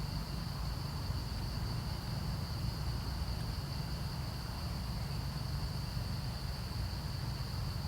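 A steady, high-pitched insect drone over a constant low rumble.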